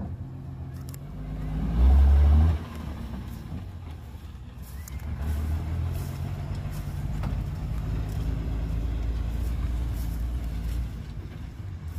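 Heavy diesel engine of earthmoving machinery running low, with a short loud rev about two seconds in that cuts off abruptly, then a steady engine drone under load.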